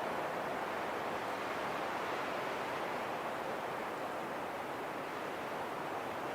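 Wind blowing in a steady rush with no distinct gusts, easing slightly in the middle.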